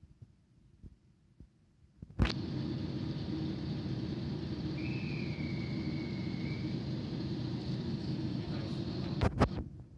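Limited express train moving past on the adjacent track: a steady rumble of wheels and running gear with a short high squeal about halfway through. The rumble starts suddenly with a click about two seconds in and cuts off with a couple of clicks shortly before the end.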